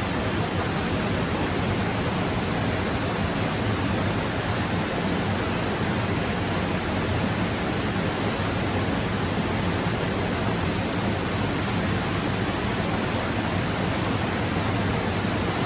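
Rushing stream water: a steady, even noise of flowing water.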